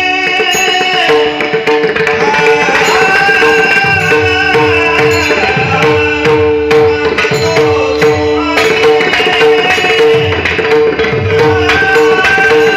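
Indian devotional music: pakhawaj drum strokes with sliding bass tones, played in a fast steady rhythm over a continuous drone, with a higher melodic line above.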